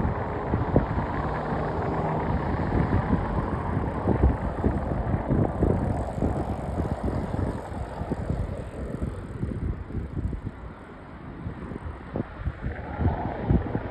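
Wind buffeting the microphone over a low, rumbling roar that eases off about nine seconds in and builds again near the end.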